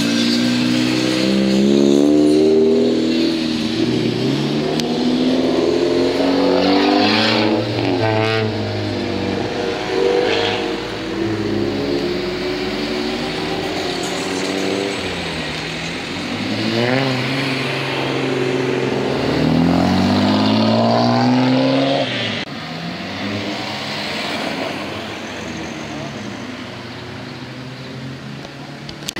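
Modified cars' engines revving and accelerating away one after another, the engine pitch rising and falling several times.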